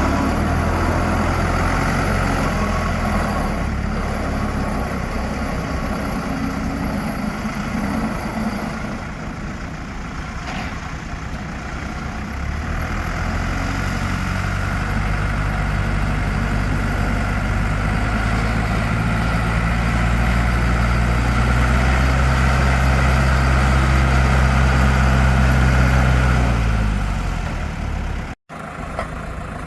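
Ditch Witch 6510 trencher's Deutz diesel engine running, its speed changing: it slows about eight seconds in, comes back up around twelve seconds and holds steady and louder, then falls away near the end. A brief break in the sound follows.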